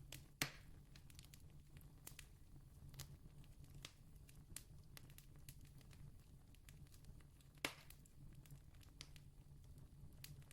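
Campfire crackling faintly, with scattered small pops and two louder pops, one just after the start and one about three-quarters of the way through, over a low steady hum.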